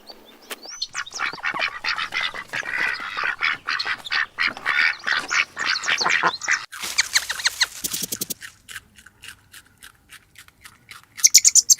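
Several birds calling over one another in a dense run of short calls for about six seconds, then sparser short calls and clicks, with one loud high call near the end.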